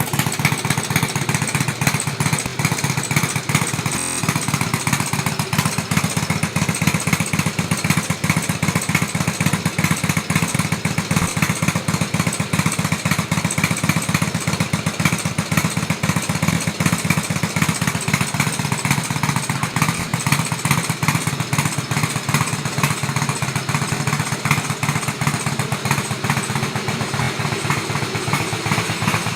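Harley-Davidson trike's V-twin engine running steadily through its exhaust, an even stream of rapid firing pulses with no revving.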